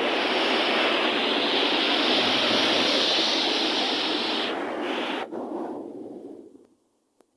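Steady rushing noise of wind and sea surf on the shore, fading out over the last second or two.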